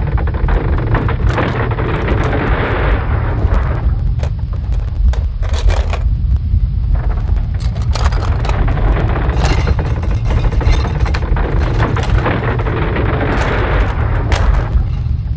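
Earthquake sound effect: a continuous deep rumble with many sharp cracks and crashing, crumbling noises over it, as buildings shake and collapse.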